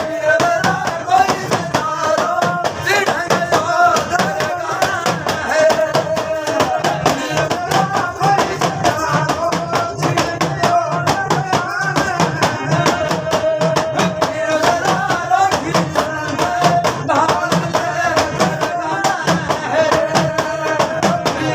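A folk singing party performing: singing over a melody, with a fast, steady percussion beat.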